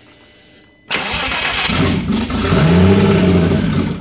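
Turbocharged VW VR6 engine cranking on the starter for about three seconds without starting, the pitch rising and then falling before it cuts off: a no-start condition.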